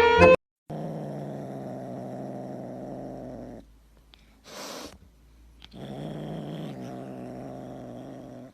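Domestic cat purring loudly up close in two long stretches, with a short breathy hiss in the pause between them.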